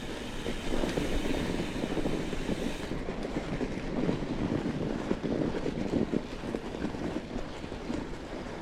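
Fat bike riding along a snowy trail: a steady rumble of the wide tyres rolling over snow with small crackles and rattles, and wind noise on the microphone.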